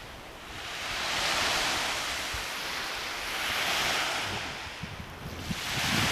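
Lake waves washing onto the shore in high wind, a rushing hiss that swells and fades twice.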